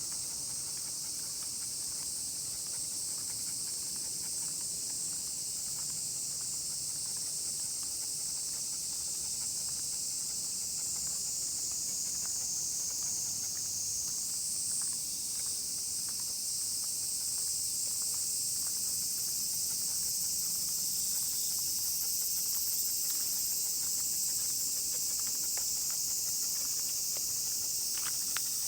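A dense chorus of cicadas, a steady high-pitched buzzing that doesn't let up, with faint light clicks now and then, more of them near the end.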